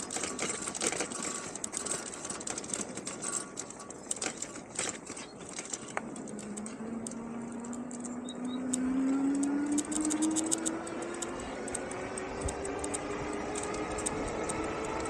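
Electric hub motor of an Engwe Engine Pro 750 W e-bike whining under power. About six seconds in the whine starts and rises steadily in pitch as the bike speeds up, over wind noise and crackle on the microphone.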